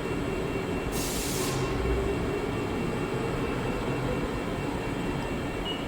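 Steady drone of factory machinery running, with a short hiss about a second in.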